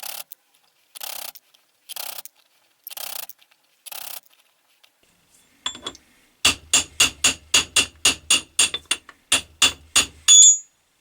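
Metal-on-metal work freeing a stuck finger from an Atlas 10 lathe's fixed steady. First come several rasping strokes about a second apart, then a quick run of light ringing metal taps, about four a second, ending in a louder ringing clink as the finger comes free.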